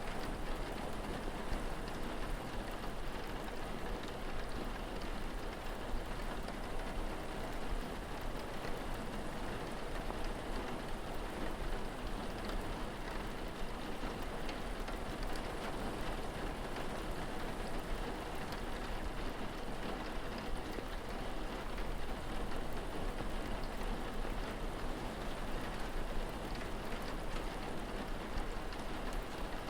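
Steady rain falling and pattering on surfaces, an even hiss with no let-up, over a constant low rumble.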